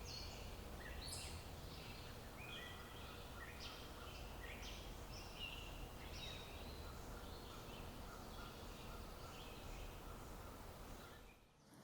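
Faint short calls of small songbirds at feeders, coming every half second or so, over a low background rumble; the sound cuts off shortly before the end.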